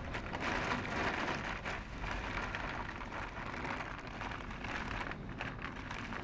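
Storm rain falling in irregular patters on a surface, over a steady low rumble of strong wind.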